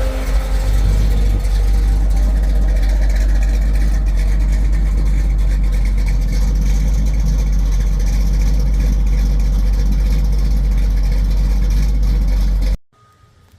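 1968 Pontiac Firebird's engine running steadily with a strong low rumble, cutting off abruptly near the end.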